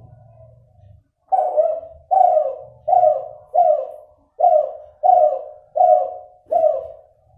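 Spotted dove (derkuku), a Kelantan-cross F2 bird, cooing: a run of about eight short coos, roughly one every 0.7 s, starting a little over a second in. The owner calls the voice still nasal, with an inconsistent number of end notes.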